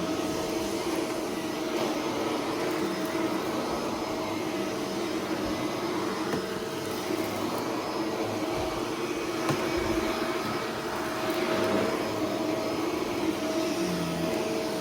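Upright vacuum cleaner running steadily with a constant motor whine, with a few brief crackles as confetti and glitter are sucked up from a rug.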